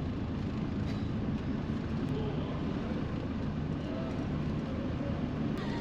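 Steady low rumble of a van's engine running, heard from inside the cabin while it moves slowly in the ferry boarding queue.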